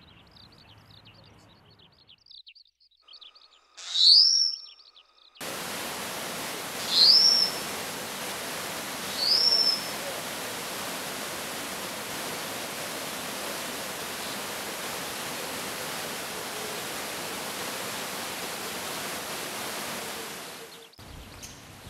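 Taiwan whistling thrush giving three loud, shrill, upswept calls a few seconds apart over the steady rush of a stream, which cuts off near the end. Faint twittering of other birds is heard in the first couple of seconds.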